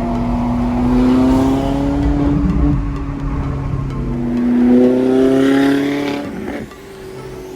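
A car engine accelerating hard, its note climbing in pitch twice, then dropping away sharply near the end.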